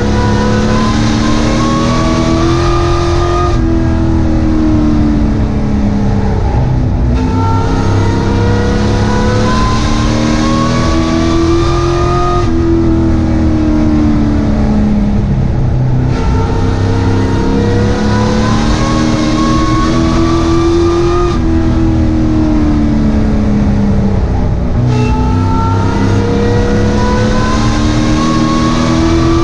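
Race truck engine heard from inside the cab, racing around a short oval: the pitch climbs as the engine pulls down each straight, then drops as the driver lifts for the turns. This repeats about every nine seconds, about three times.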